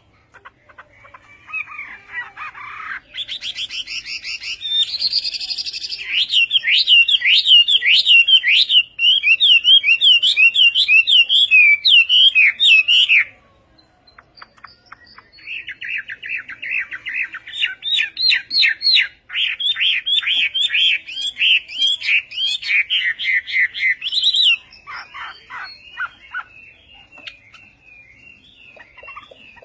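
Hwamei (Chinese hwamei laughingthrush) singing: two long, loud phrases of rapid repeated whistled notes sweeping up and down. Each phrase lasts about ten seconds, with a short pause between them, and softer scattered notes follow near the end.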